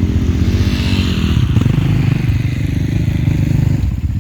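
Off-road motorcycle engine running close by with a rapid, even beat.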